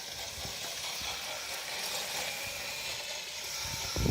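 Kids' 36-volt electric quad bike driving, a steady hiss of its motor and tyres.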